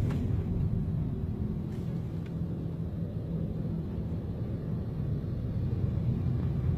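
Motorcade vehicles' engines running as they pass, a steady low rumble with no siren.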